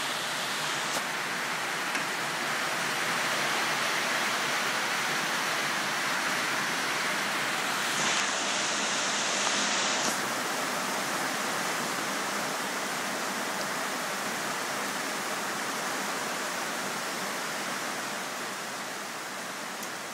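Steady rain falling, a dense, even hiss that eases a little near the end.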